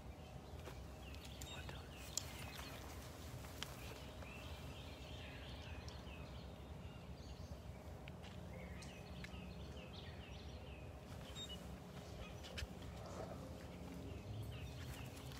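Birds singing: bursts of short repeated chirping phrases come and go every few seconds over a steady low outdoor rumble, with a few sharp clicks scattered through.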